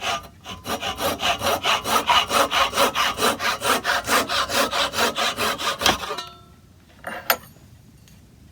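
Hand saw cutting wood in quick, steady back-and-forth strokes that stop about six seconds in, followed by a short knock about a second later.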